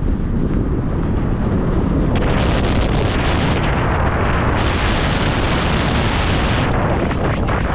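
Steady heavy wind buffeting on the microphone with a deep rumble, as when filming from a moving car; the hiss above it swells and fades a few times.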